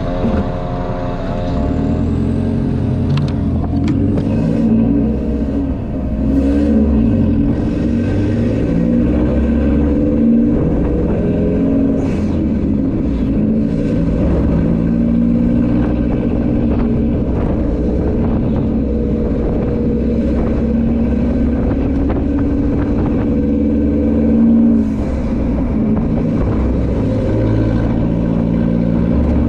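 Scooter engines running on the move, their engine notes rising and falling with the throttle.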